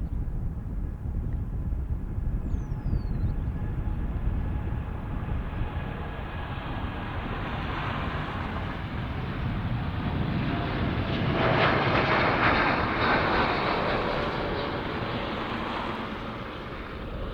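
Jet airliner engines passing by: a broad rushing noise with a faint whine that builds to its loudest about twelve seconds in, then fades.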